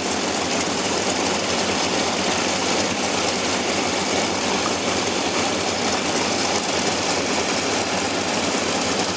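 Propeller aircraft engines running steadily at idle.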